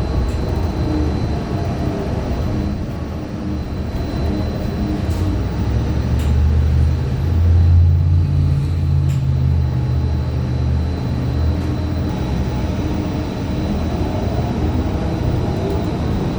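A 2015 Gillig Low Floor CNG bus's Cummins Westport ISL G engine and Allison B400R transmission running, heard from inside the cabin; the uploader calls the transmission messed up. The engine pitch falls early on, a heavy low rumble builds in the middle, and the pitch rises again near the end as the bus pulls away.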